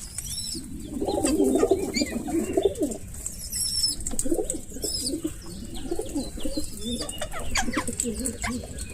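Birds calling: low, rolling cooing throughout, with short high chirps and squeaks over it.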